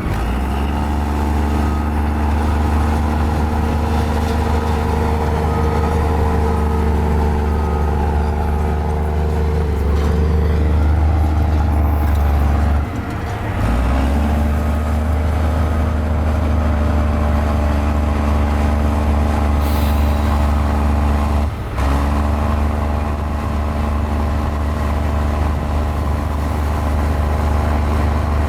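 Diesel engine of a mini Komatsu bulldozer running steadily, with two brief dips in level about 13 seconds in and again around 22 seconds.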